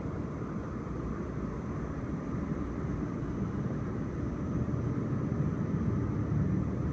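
Low, steady outdoor background rumble that slowly grows louder, with a faint high steady tone above it.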